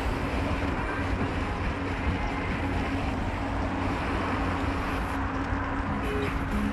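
A car driving, with steady engine and road noise and a constant low hum.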